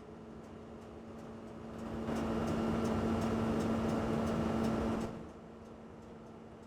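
Train cab interior: a steady hum with a regular light ticking. About two seconds in, it swells into a louder hum and rush for roughly three seconds, then drops back to the quieter level.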